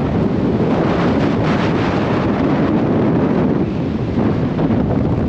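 Gale-force wind blasting across the microphone, a loud, continuous rumbling buffet.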